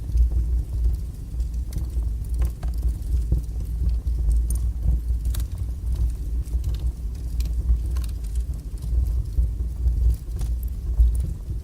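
Wood fire burning strongly, with a steady low roar and frequent small crackles and pops of burning logs.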